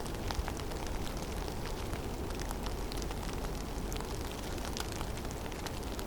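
Snowstorm in a forest: a steady low rush of wind, with many small scattered ticks of snow and ice landing.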